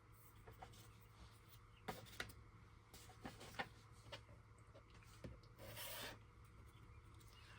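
Near silence with faint handling sounds from crafting at a desk: a few light ticks and taps, and one short rub, like paper sliding, about six seconds in.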